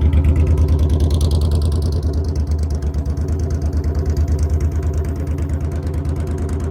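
Motorcycle engine running at low revs with a steady, even pulsing beat, close by; it eases off slightly about two seconds in.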